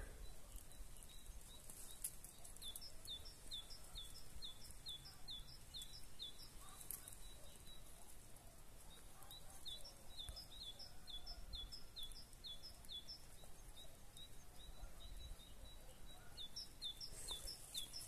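Faint song of a small bird: short high chirps repeated about two to three a second in runs of a few seconds, with pauses between runs, over a faint steady outdoor hiss.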